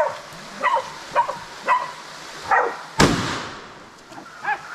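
Bailing pig dogs barking repeatedly at a cornered wild boar, then a single loud shotgun shot about three seconds in, ringing out for about a second, and one more bark near the end.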